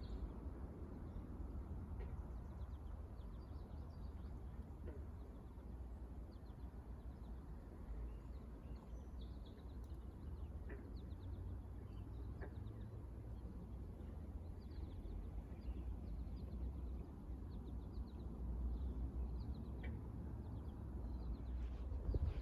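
Faint, scattered songbird chirps over a steady low rumble of outdoor background noise.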